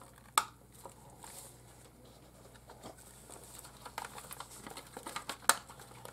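Light clicks and rustling from handling a refrigerator defrost timer and its small plastic parts, with a sharp click about half a second in and another near the end.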